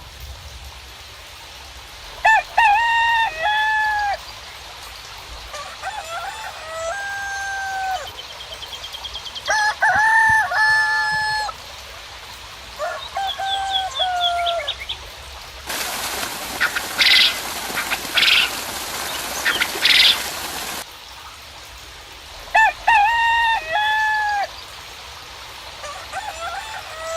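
Roosters crowing again and again, about six crows spaced a few seconds apart, with faint small-bird chirps between them. A burst of steady hiss, like a patch of rain, runs for about five seconds in the middle.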